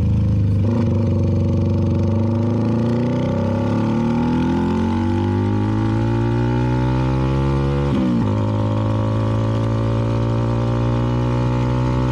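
CFMoto 300NK's single-cylinder engine through a KO aftermarket exhaust, accelerating through a gear with steadily rising pitch, a quick upshift about eight seconds in, then building again more slowly.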